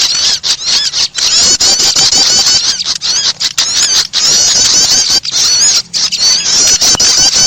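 Kerbas bird lure call: a rapid, unbroken run of high, twittering chirps and trills, briefly broken by short gaps.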